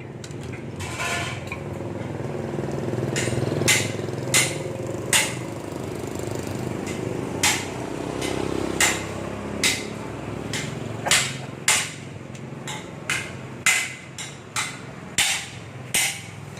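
Hammer tapping on the parts of a submersible pump being reassembled: a series of sharp blows, each with a short ring, at uneven spacing of about one a second, starting a few seconds in over a steady low hum.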